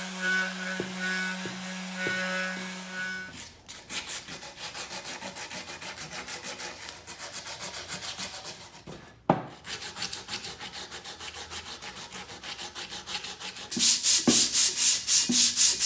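Abrasive rubbing on a welded steel frame, hand-sanding or filing the welds in fast, even back-and-forth strokes that turn much louder near the end. A steady hum fills the first few seconds.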